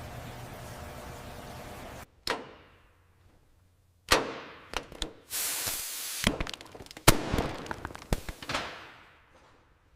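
A steady hum, then from about two seconds in a run of sharp bangs and knocks, each trailing off, with a short hiss between them about five seconds in.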